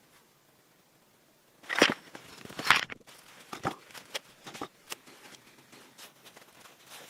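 Knocks and taps on wood, as from hand tools working timber: two loud strikes about two seconds in, less than a second apart, then a run of lighter, irregular knocks.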